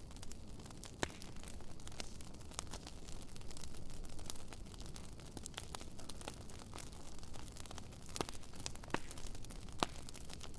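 Bonfire burning, its wood crackling with scattered sharp pops, the loudest about a second in and near the end, over a low steady rumble.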